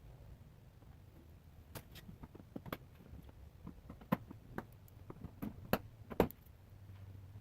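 Scattered sharp clicks and light knocks of tools and parts being handled, about a dozen over four seconds, over a faint low hum.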